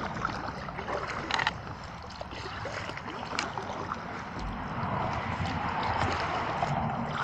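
Kayak paddling: paddle blades dipping and splashing in the water, with a few light knocks.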